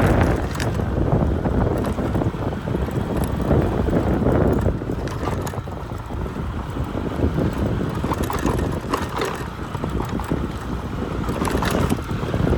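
Wind buffeting the microphone: a steady, uneven low rumble with a few faint clicks.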